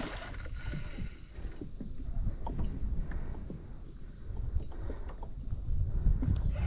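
Insects chirping in a steady, evenly pulsing high-pitched chorus, over a low rumble with scattered small knocks.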